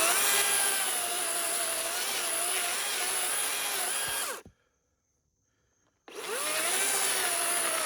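DeWalt 60-volt battery chainsaw cutting through wood, its motor whine spinning up and wavering under load. It stops abruptly about four and a half seconds in, and after a second and a half of silence spins up and cuts again. The chain is dull and, in the owner's view, possibly short of oil.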